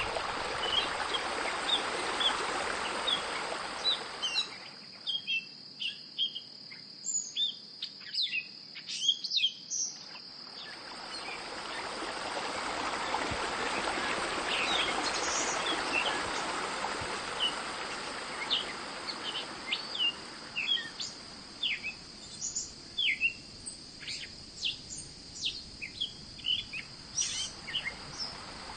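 Small birds chirping with many short calls, over a steady high, insect-like tone. A broad rushing noise swells at the start and again in the middle, then fades.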